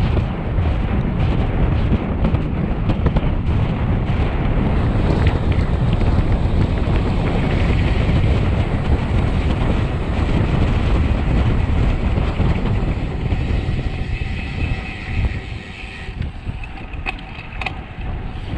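Heavy wind rumbling across the microphone of a road bike descending at speed. In the last few seconds the rush eases and a thin high tone and a few clicks come through.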